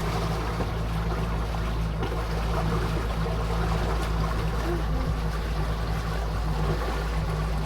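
Small boat under way, its motor giving a steady low hum, with water rushing along the hull.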